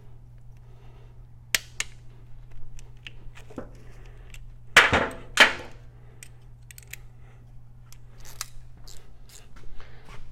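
Click-type torque wrench tightening oil pump bolts, with light metal tool clicks, then two loud sharp clicks about half a second apart near the middle as the wrench reaches its set torque.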